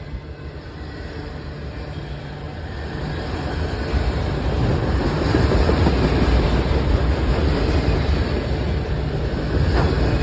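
CSX freight train rolling past, its cars' wheels rumbling on the rails. The sound grows steadily louder over the first few seconds, then holds loud.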